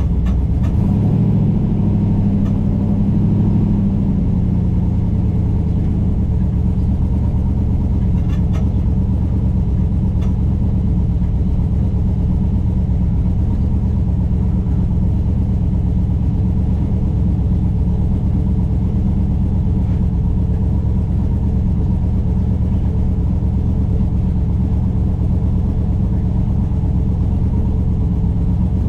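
A vehicle engine running steadily with a deep, even rumble, swelling briefly in the first few seconds.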